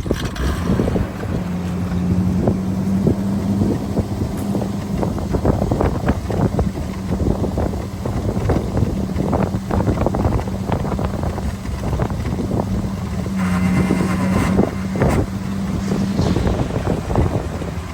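Ford grain truck's engine running steadily, with wind buffeting the microphone. The engine note briefly grows stronger about three-quarters of the way through.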